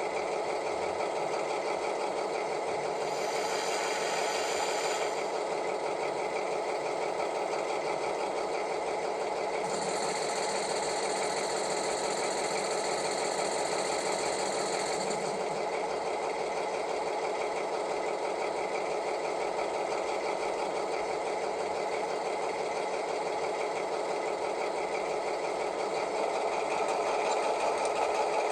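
H0 model diesel locomotive's sound decoder playing a diesel engine running steadily through its small speaker, mixed with the model's own motor and running gear. A high hiss joins in twice, for about two seconds a few seconds in and for about five seconds around the middle, and the sound grows a little louder near the end.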